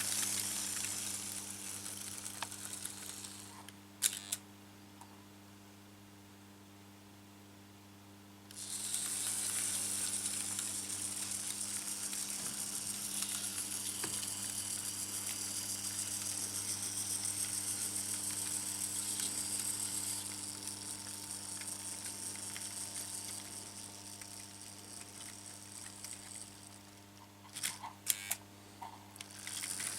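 Märklin H0 model train running on metal M-track: a steady high hissing rattle of the small motor and wheels over a low steady hum. The hiss drops out for a few seconds about four seconds in and comes back about eight seconds in, with a few sharp clicks near the start of the gap and again near the end.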